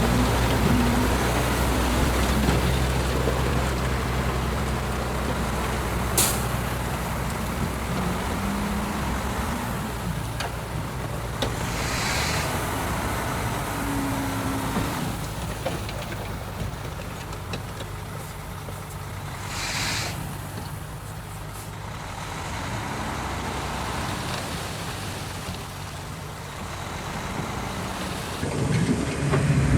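Heavy diesel engines of a dump truck and a bulldozer running, their pitch rising and falling with load. There are two short air-brake hisses, about 12 and 20 seconds in.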